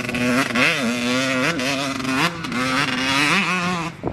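Dirt bike engine running hard at high revs, its pitch mostly holding steady with several brief dips and quick rises.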